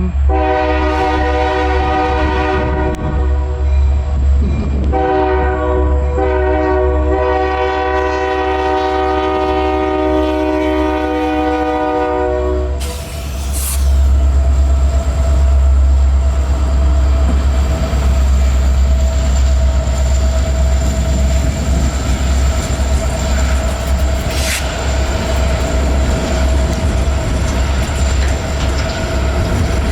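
A Canadian National train's locomotive horn sounds a chord, first briefly and then in one long blast of about eight seconds. The train then rolls past with a steady rumble and the clatter of its wheels.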